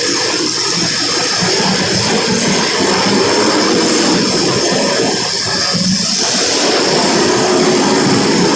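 A pack of small race cars' engines running steadily together as the field circles the track, a continuous rushing drone with no single engine standing out.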